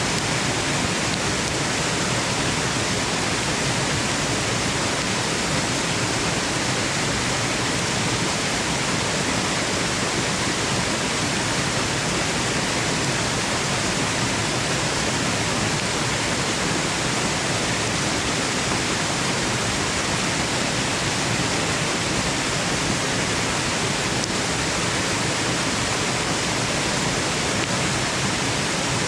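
Steady waterfall rush, an even, unchanging hiss of falling water played as white noise for putting a baby to sleep.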